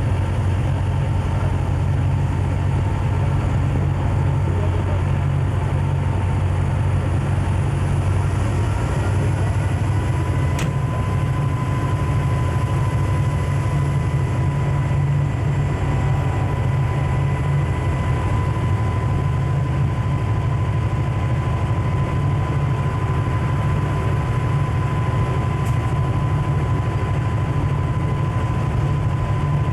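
Diesel locomotive of a Conrail freight train running steadily: an unbroken heavy low rumble, with a thin steady whine above it.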